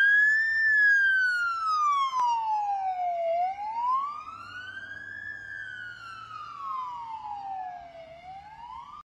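Police vehicle siren on a slow wail, rising and falling in pitch about every five seconds and growing fainter as the police SUV moves away. It cuts off suddenly about nine seconds in.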